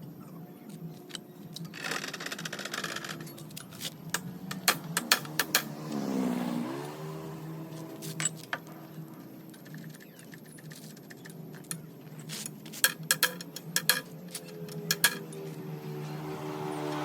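Small metal parts clinking and tapping over a steady low hum.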